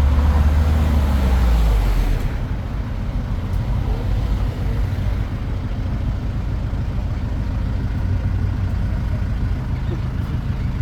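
Tourist road train in motion, its engine and running gear rumbling low and steady. The rumble is heavier for about the first two seconds, with an engine note falling away, then settles.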